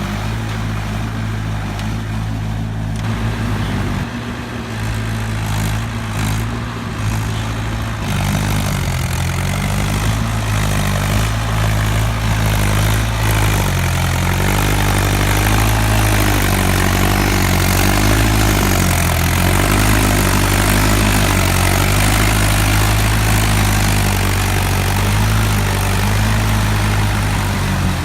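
Mahindra 575 DI tractor's four-cylinder diesel engine running under load, its pitch rising and falling as the revs change. It gets a little louder about eight seconds in.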